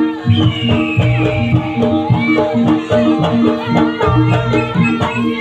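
Live jaranan music: a Javanese folk ensemble of hand drums and repeating metallic gong-chime notes, with a high, wavering melody line over it.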